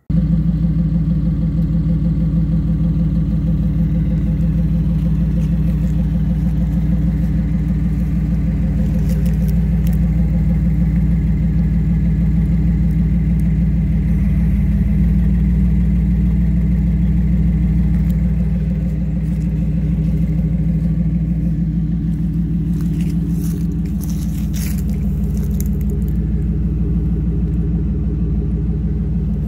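2015 Chevrolet Silverado's 4.3-litre V6 running steadily through an MBRP side-exit aftermarket exhaust, a deep, even drone that dips slightly in level a couple of times.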